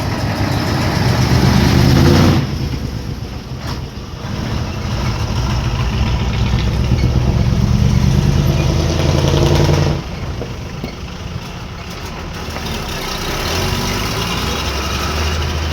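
Sugarcane hauler truck's engine under load: it is revved hard twice, the revs dropping away suddenly about two seconds in and again about ten seconds in, then it runs lower and steadier.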